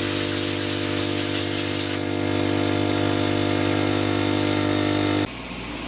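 Compressed air hissing from an air blowgun for about two seconds as the AC service-port Schrader valves are blown out. Under it runs a steady machine hum that cuts off suddenly about five seconds in.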